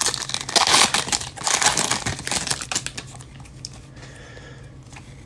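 Trading-card pack wrapper crinkling as the pack is handled and opened. It is loud for about the first three seconds, then quieter.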